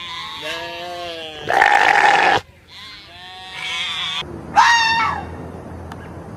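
An animal calling: four pitched, wavering cries, the loudest about two seconds in and a short sharp one near the five-second mark.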